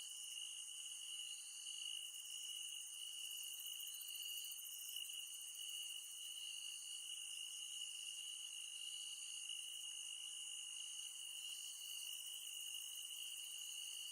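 Chorus of forest insects trilling steadily at a high pitch, with a fainter second call pulsing about once a second.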